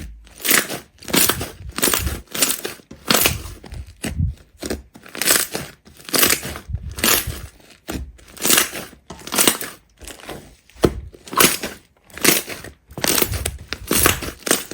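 Repeated crunching and crushing of a crunchy material, one to two short crunches a second.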